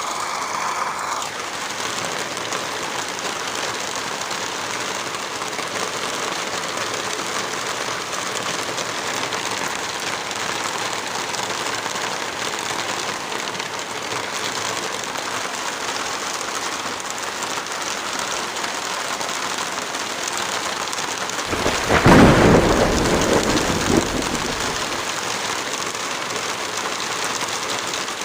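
Heavy rain falling steadily, with one roll of thunder rumbling for a few seconds near the end.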